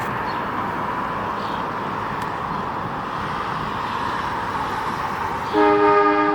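A steady rushing noise, then about five and a half seconds in a Staten Island Railway train's horn sounds a loud chord of several tones.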